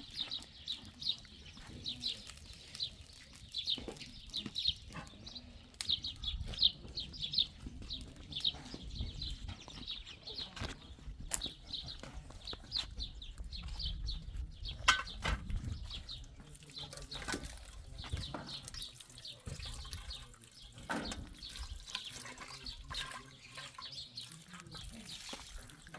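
Small birds chirping in quick repeated notes, with scattered knocks and clicks among them.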